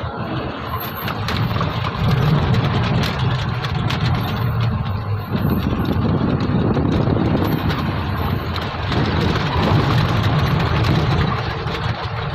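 Truck engine running steadily with a deep rumble, growing somewhat heavier through the middle of the stretch.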